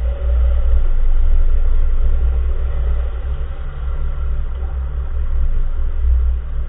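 Low, steady rumble of a 2014 Nissan March on the move, swelling and easing a little: road and tyre noise around the car.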